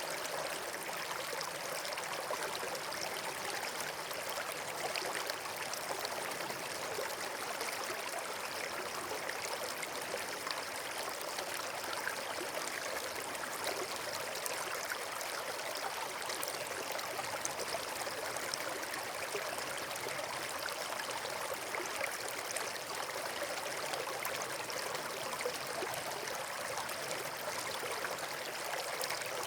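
Steady rushing of flowing water, a stream or small waterfall, unchanging throughout.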